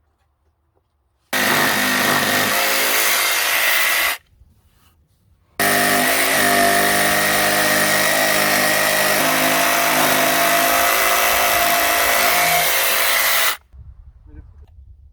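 Handheld power tool running at full speed in two bursts, one of about three seconds and a longer one of about eight, each starting and stopping abruptly with a steady high whine.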